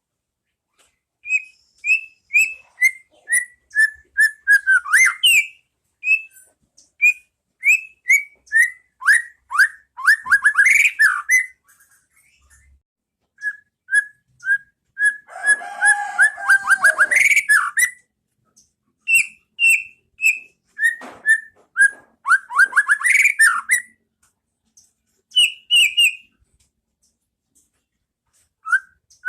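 White-rumped shama (murai batu) singing: runs of clear whistled notes stepping down in pitch, breaking into fast trills, with a harsher, lower phrase in the middle and short pauses about twelve seconds in and near the end.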